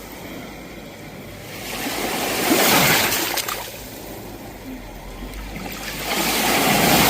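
Sea waves breaking on a shore: two waves swell up and wash in, the first peaking about two and a half seconds in and the second near the end.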